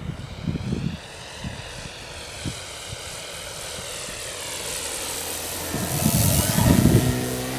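Electric motor and propeller of a 2.7 m Extra 330LX radio-controlled aerobatic model plane, a whine that grows louder over several seconds and peaks near the end as the plane passes, its pitch falling as it goes by. Wind thumps on the microphone in the first second.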